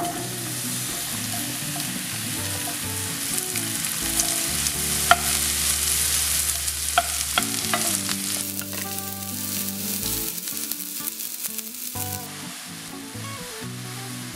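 Sliced champignon mushrooms sizzling as they fry in hot oil in a frying pan, with a few sharp clicks as they are moved about. The sizzle is loudest in the middle and eases off after about twelve seconds.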